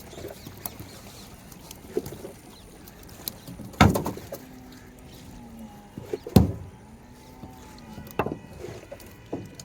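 Two heavy thumps about two and a half seconds apart, with lighter knocks before and after, against faint water and boat sounds.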